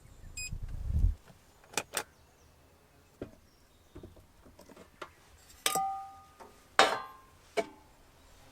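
Objects being handled: a low thump, a couple of sharp clicks, then three clattering knocks, the first two with a short metallic ring.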